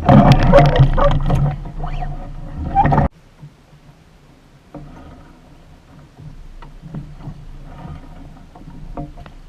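Water splashing against a small sailboat's hull, with wind rushing on the microphone. About three seconds in it cuts off suddenly to quiet water lapping with small clicks.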